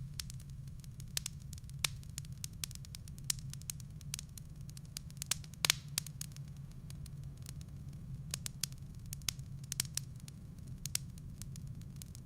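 Wood fire burning in a fireplace: irregular sharp crackles and pops from the firewood over a steady low rumble, with a brief cluster of louder pops a little past halfway.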